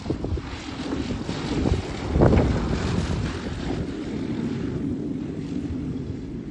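Wind buffeting the microphone over the running of a propeller engine during a landing, with a loud gust or bump about two seconds in.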